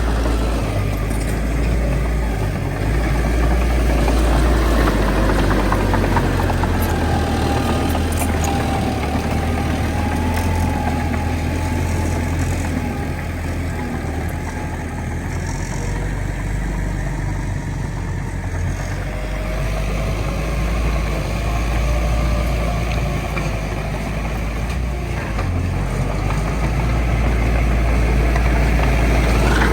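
Heavy diesel earthmoving machinery running steadily with a deep rumble, a faint wavering whine rising and falling over it.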